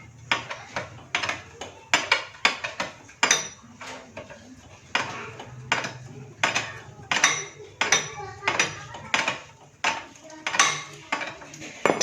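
Metal hand tools and engine parts clinking and clattering as a motorcycle's magneto cover is taken apart: many irregular sharp metallic knocks, some with a brief ringing.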